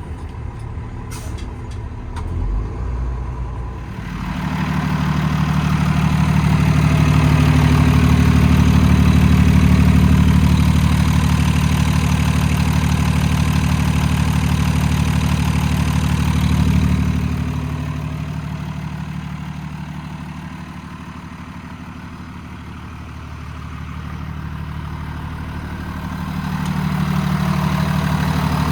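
Paccar PX9 8.9-litre diesel engine of a Peterbilt 337 running steadily. It comes up strongly about four seconds in, eases off for a few seconds past the middle, then builds again near the end.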